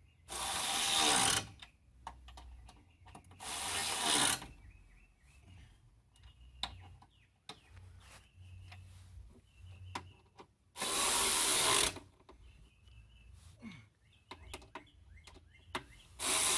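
A power tool run in four bursts of about a second each, driving the running-board bracket bolts snug, with small clicks and handling noises between the bursts.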